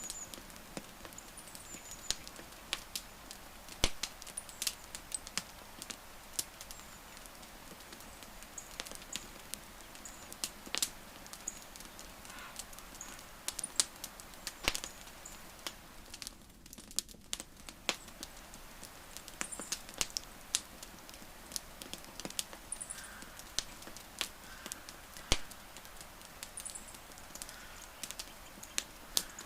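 Wood campfire crackling, with irregular sharp pops and snaps of burning wood, a few of them louder. Faint high chirps come and go in the background.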